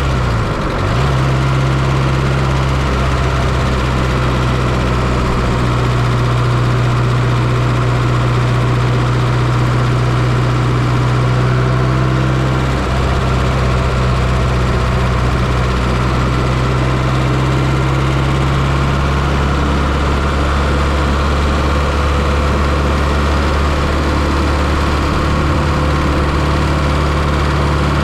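1995 Fiat Coupe's 2.0 16V turbocharged four-cylinder engine idling steadily, heard close up from inside the engine bay. Its pitch dips and settles in the first second, then holds steady.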